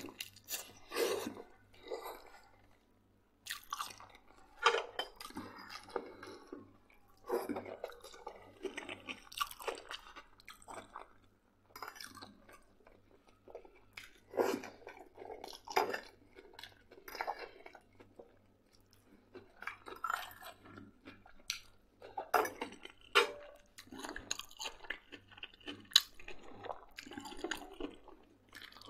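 A person chewing and eating close to the microphone, with wet mouth sounds in irregular bursts and occasional sharp clicks, over mouthfuls of pork-head sausage and boiled potato.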